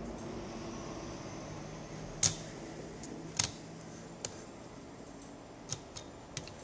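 A few short, sharp clicks and taps of hard parts being handled, the loudest about two seconds in, over a steady low hum: hands and tools working on a laptop being taken apart.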